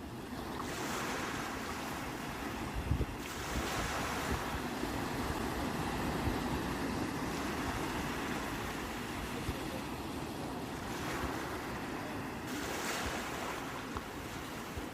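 Sea waves washing ashore in a steady wash of surf, the hiss swelling as waves break about a second in, again around three seconds and near the end, with some wind buffeting the microphone.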